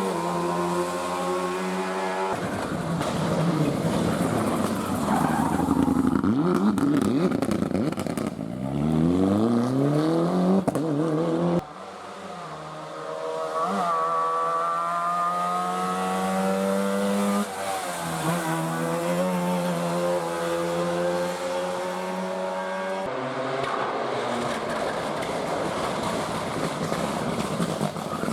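Rally cars being driven hard past the spectators, one after another. Their engines rev up and drop back through gear changes, and the sound cuts abruptly from one car to the next several times.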